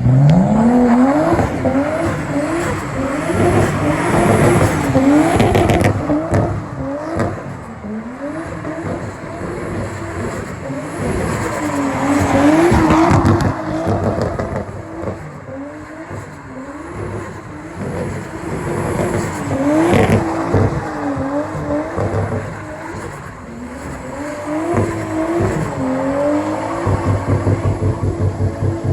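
Nissan Skyline R33 drift car's engine revving up and down over and over as it drifts, with tyres squealing at times and a sharp crack about twenty seconds in. Near the end the engine settles into a steady, pulsing low note.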